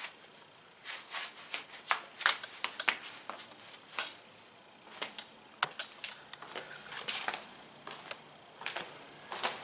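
Irregular light clicks, taps and rustles at close range, several in quick runs with short pauses between.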